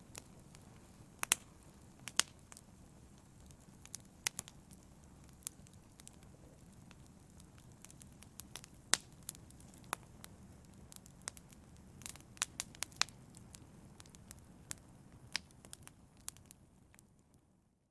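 Fire burning in a fireplace: irregular sharp crackles and pops over a steady low rumble of flame. Near the end it fades out.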